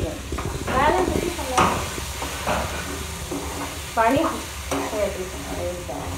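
Vegetables and masala frying in oil in a steel pan, sizzling steadily while a spoon stirs them through.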